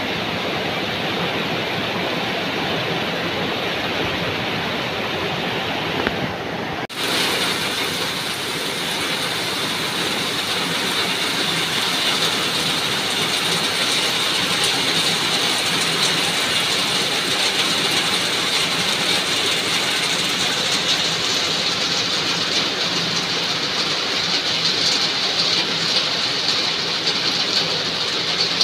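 Heavy rain pouring steadily, a dense even hiss of the downpour on trees and ground. About seven seconds in it dips briefly, then comes back brighter and hissier.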